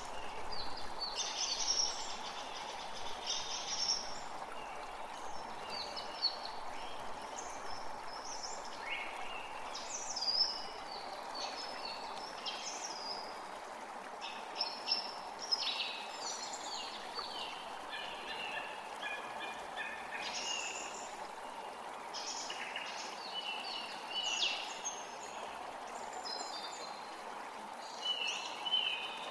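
A forest creek running steadily, with songbirds singing short, frequent phrases over it.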